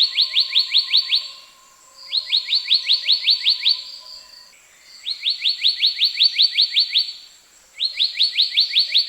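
Black-naped monarch calling: four quick runs of short notes, about eight a second, each note sliding down in pitch, with brief pauses between the runs.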